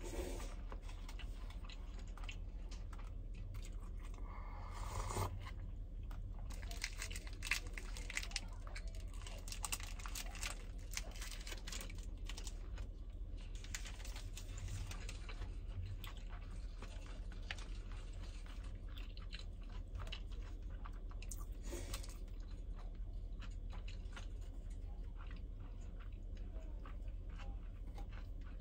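A person chewing and crunching food close to the microphone, with bouts of crisp crunches, over a steady low hum.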